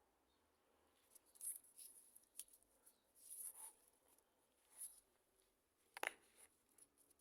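Near silence with scattered faint clicks and rustles, and one sharper click about six seconds in.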